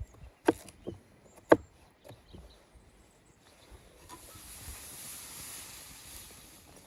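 Knife chops on a wooden cutting board: three sharp knocks in the first second and a half, the last the loudest, then a steady soft hiss from about halfway in.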